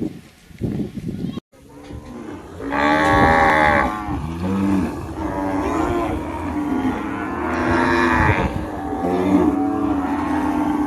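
Cattle mooing: long drawn-out calls, the two loudest about three and eight seconds in, with lower moos between them and near the end.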